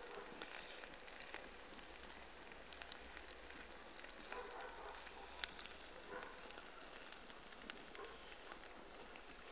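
Wood fire burning: a faint steady hiss with scattered sharp crackles and pops.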